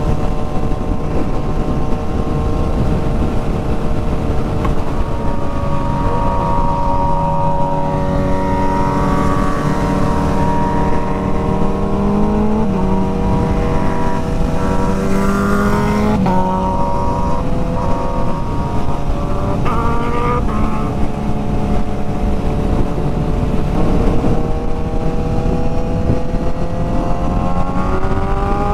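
Kawasaki Z900's inline-four engine pulling under way, its note climbing and dropping. The pitch steps down about sixteen seconds in at a gear change, then climbs steadily again near the end, over a steady low rush of wind and road noise.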